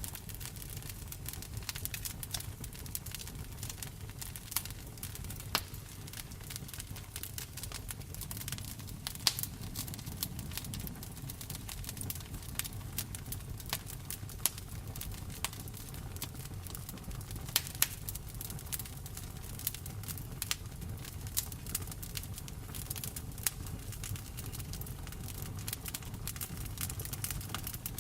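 Wood fire in a fireplace crackling, with frequent sharp pops scattered irregularly over a steady low rumble, and the steady rush of rain behind it.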